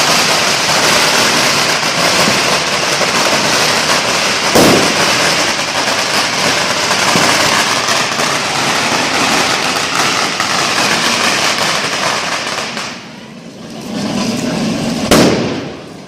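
Fireworks crackling densely and without a break, with a louder bang about four and a half seconds in and another near the end.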